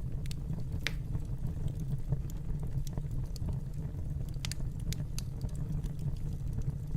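Wood fire crackling in a fireplace: a steady low rumble of the flames with sharp pops and crackles at irregular intervals, a few of them close together about four and a half seconds in.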